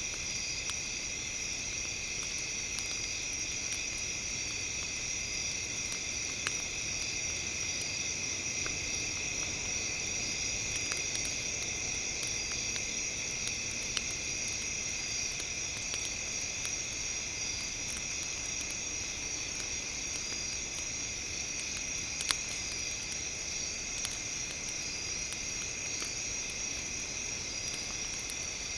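Campfire crackling with sparse sharp pops, the loudest about two-thirds of the way through, over a steady, shrill high-pitched drone.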